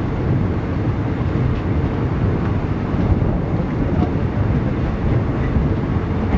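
Steady rumble of a moving passenger train heard from an open window of the coach, with wind buffeting the microphone and a few faint clicks of wheels on the rails.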